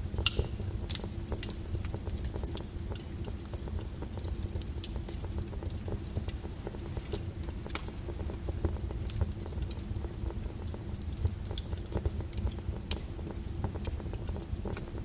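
Wood fire in a fireplace crackling: irregular sharp pops and snaps over a steady low rush, with one louder pop about four and a half seconds in.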